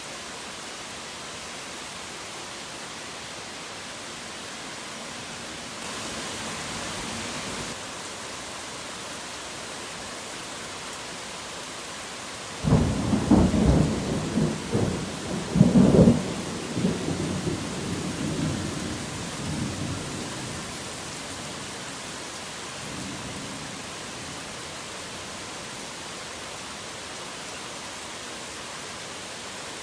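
Steady rain hiss, with a sudden thunderclap about thirteen seconds in whose rolling peaks rumble on for a few seconds and fade out by about twenty seconds; a fainter rumble follows a few seconds later.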